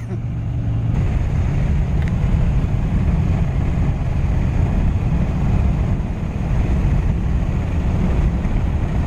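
Steady road and engine rumble of a car heard from inside the cabin while driving slowly on a snowy road.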